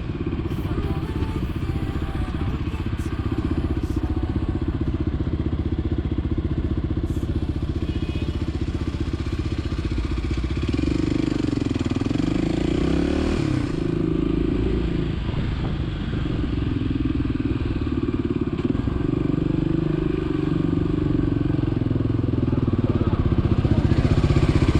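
Motorcycle engine running under way, a steady low drone whose pitch dips and rises with the throttle about halfway through and again near the end.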